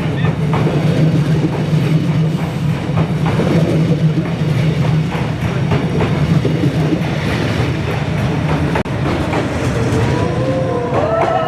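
A train rumbling past with a steady low drone.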